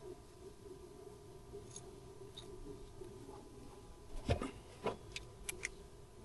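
Two dull knocks a little past four seconds in, followed by a few sharp, light clicks, over a steady low hum.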